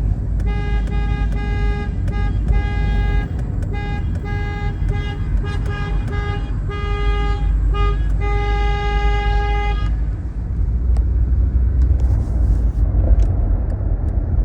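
A vehicle horn honking in a run of about a dozen short and long toots, ending in a long blast about ten seconds in. Beneath it is the steady low rumble of a car driving.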